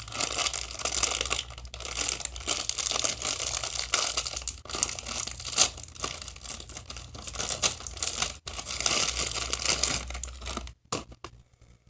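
Crinkly plastic blind bag being torn open and crumpled by hand, an irregular crackling that runs for about eleven seconds and stops shortly before the end.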